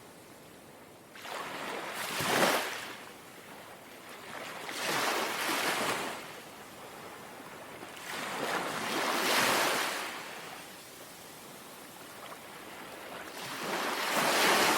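Small, gentle waves washing onto a shore and drawing back, four soft swells of hiss about four seconds apart.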